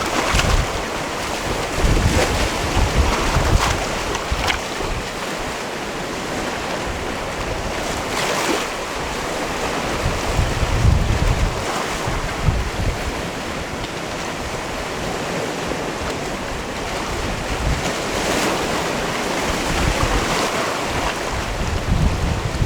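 Sea waves washing in against a rocky cove shore, swelling and breaking every few seconds, with wind rumbling on the microphone.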